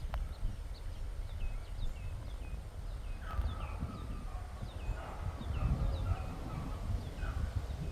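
Low wind rumble buffeting the microphone, with a bird calling over it in short, falling chirps repeated a few times a second. Other bird calls join about three seconds in.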